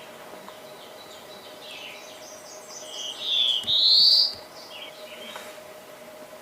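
Small songbird chirping, with a much louder two-part song phrase about three seconds in: a short sliding note followed by a longer rising one. A faint steady hum runs underneath.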